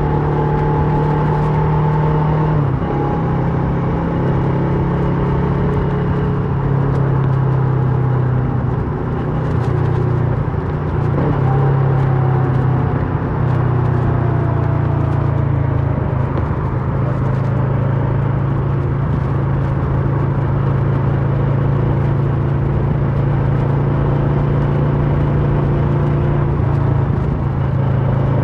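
2008 Kawasaki Versys 650's parallel-twin engine running through a MIVV slip-on exhaust while riding, holding a fairly steady note that eases a little lower in pitch around the middle.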